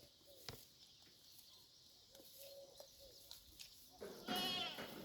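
A goat bleats loudly about four seconds in, one wavering call lasting about a second. Before it, a few sharp clicks and some faint short calls.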